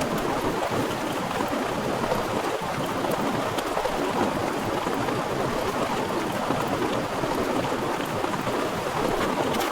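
Heavy rain falling steadily in a dense, even downpour, with scattered sharper drop ticks.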